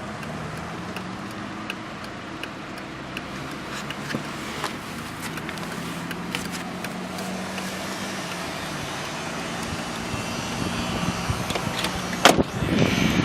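A 2000 Volkswagen Bora's 1.6-litre eight-valve inline-four idling steadily, with scattered light clicks and one sharp knock near the end.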